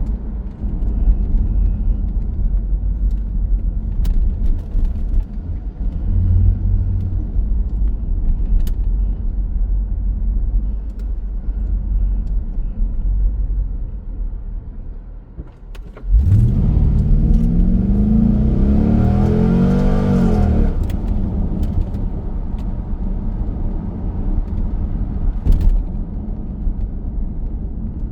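2002 C5 Corvette's V8 and road noise heard from inside the cabin with the exhaust cutout valves closed: a steady low drone at cruise, then a little over halfway through the engine accelerates hard, its note rising for about four seconds before settling back to a steady drone.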